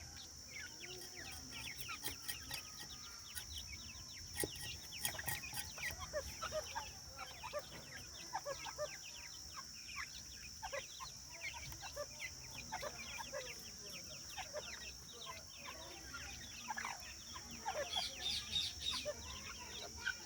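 A flock of teetar (partridges) calling together: a dense, continuous run of short chirps and clucks from many birds, busiest near the end. A steady high-pitched whine runs underneath.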